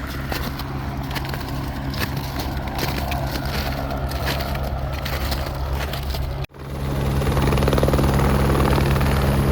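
Helicopter running with a steady low hum, with scattered crunching and crackling over it. About two-thirds of the way in the sound cuts off abruptly, and the helicopter comes back louder.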